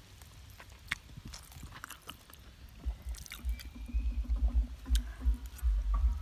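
A person eating with a spoon: small clicks and chewing. From about three seconds in, a low, gusting rumble on the microphone grows and becomes the loudest sound.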